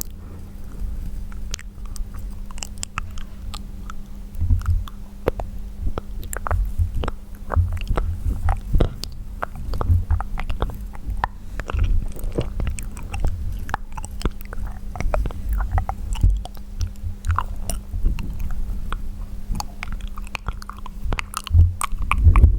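Close-miked wet mouth sounds: irregular clicks, pops and smacks of the lips, tongue and saliva, made without speech.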